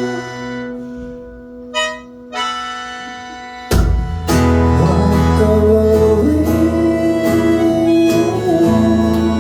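Instrumental break in a live acoustic pop song: a guitar chord rings out and fades, a couple of light high notes are picked, then just before the halfway point the accompaniment comes back in at full level with strummed guitar, a low bass line and a long held, gliding melody line.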